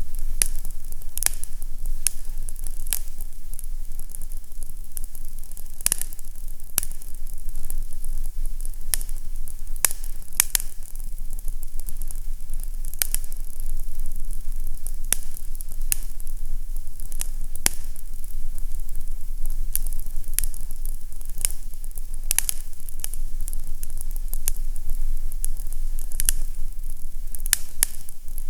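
Fireplace fire crackling: frequent irregular sharp pops over a steady hiss, with a low steady hum underneath.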